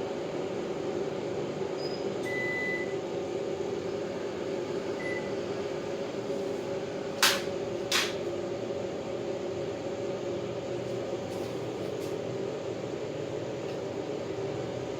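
Panasonic CS-PC9MKJ split air conditioner's indoor unit running with a steady hum. Two sharp clicks a little under a second apart about halfway through stand out, and two faint short high beeps come early on.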